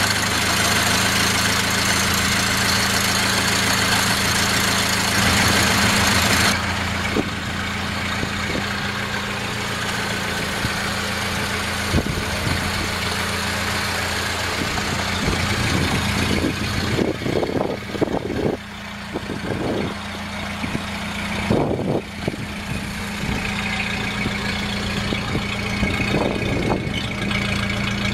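1931 Ford Model A's four-cylinder flathead engine idling steadily. It is heard close up with a hiss over it for the first six seconds or so, then from further off. A few low thumps come a little past the middle.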